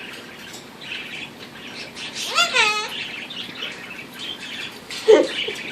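Many birds chirping in short calls throughout, with a parrot giving one loud call that rises and then holds about two and a half seconds in. A short, loud, low call comes about five seconds in.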